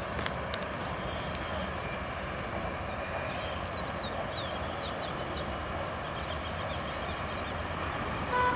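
Outdoor ambience: a steady noise bed with a run of quick, high bird chirps about three to five seconds in.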